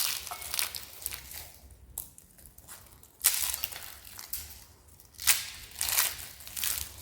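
Dry, crisp soap being crushed: a series of separate crackly crunches about a second apart, each breaking up into fine crackling.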